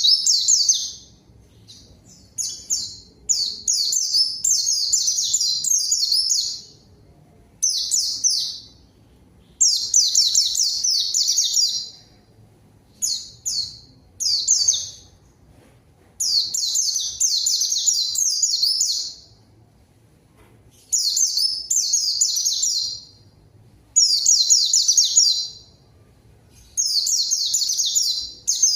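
White-eye (pleci) in full song: fast, high, twittering phrases of one to three seconds each, repeated about a dozen times with short pauses between, the lively challenging song keepers use to provoke a rival white-eye.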